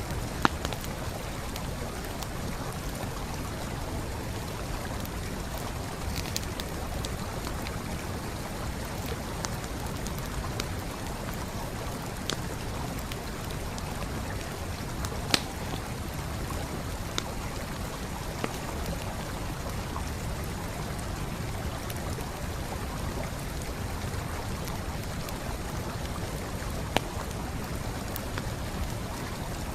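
Steady rushing of a flowing stream, with a campfire's burning wood giving scattered sharp crackles and pops over it, a few of them louder: one about half a second in, one midway and one near the end.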